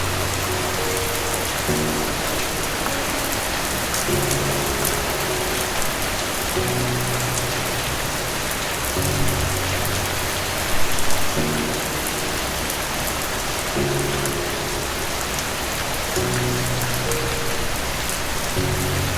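Steady rain falling, an even hiss of many drops. Under it a soft, slow music part holds low notes that change about every two seconds.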